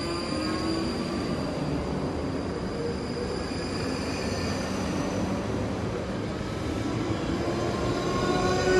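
South Western Railway electric multiple-unit train moving along the platform: steady wheel-and-rail rumble with the whine of its traction motors in faint rising tones, getting louder near the end.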